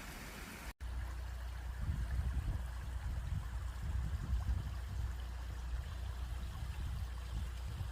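Valley stream water running steadily, after a brief dropout a little under a second in.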